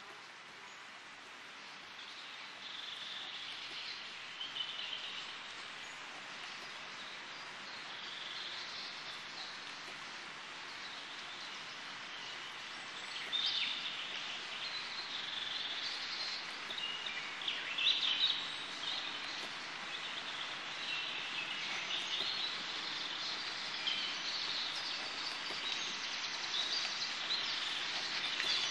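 Outdoor ambience: birds chirping and singing over a steady background hiss, the chirps growing busier from about halfway through.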